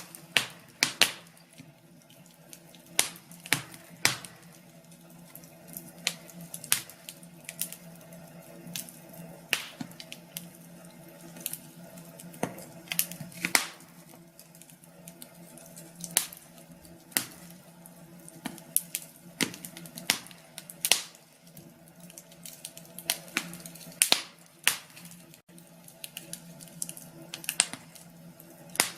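Wood fire crackling, with sharp pops at irregular intervals over a faint steady low hum.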